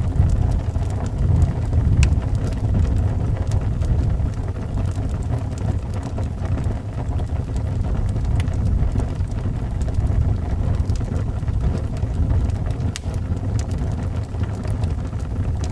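Howling wind, a deep steady rumble that is the loudest sound, with scattered sharp crackles and pops from a wood fire burning in a fireplace.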